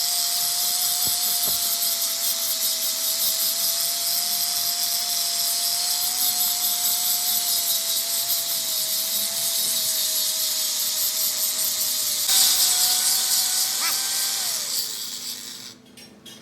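An electric power tool running steadily with a high hiss and a constant motor hum. It is switched off near the end, and its pitch falls as it winds down.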